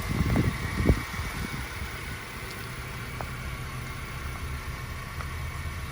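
The 1.8-litre inline-four of a Honda Civic GX, running on compressed natural gas, idles steadily. It is running again after sitting unused for about 25 days. A few brief low bumps of noise come in the first second.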